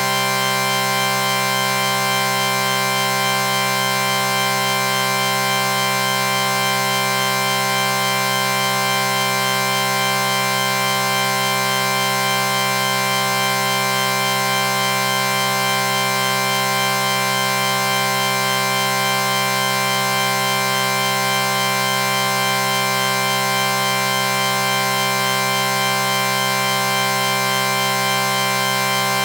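A synthetic chord: several pitched tones held together in one steady, unchanging drone, with no breaks or changes in pitch.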